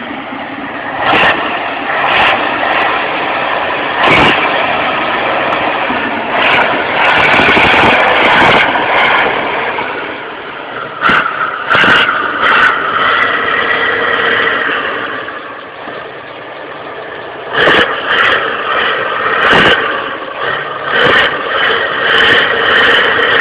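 Tractor engine running hard, its revs rising and falling, with many brief sharp peaks where the sound overloads the recording.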